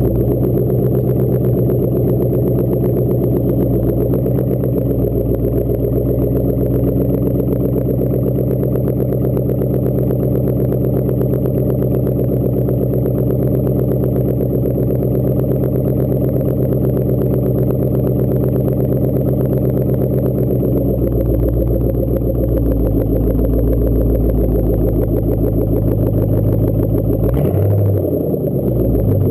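2010 Ford Mustang GT's 4.6-litre V8 idling through a Roush Extreme off-road cat-back exhaust, a loud, steady tone. About two-thirds of the way in the sound shifts lower, and near the end the pitch briefly rises and falls.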